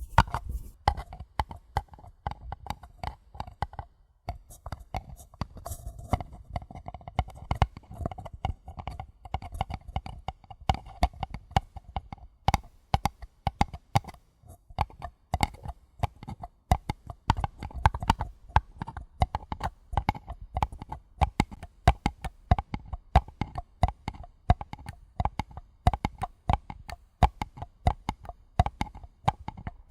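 Gentle, quick tapping on a paper cup, several light taps a second with a faint ring to each, and a short break about halfway.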